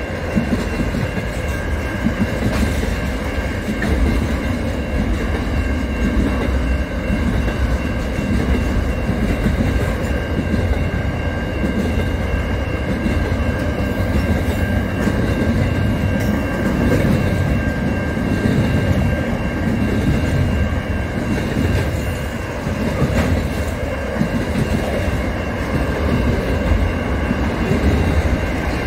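Container freight train's wagons rolling past: a steady heavy rumble with wheel clatter, and a few steady high-pitched tones held over it.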